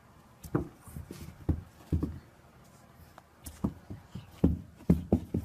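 Several irregular dull thumps in a small room.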